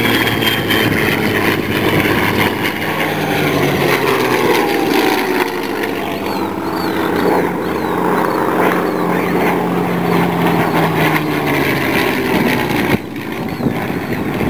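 Piston aero engines running on the ground after start-up, among them the Messerschmitt Bf109's Daimler-Benz inverted V12. The note is steady with slight wavering, and the level drops suddenly near the end.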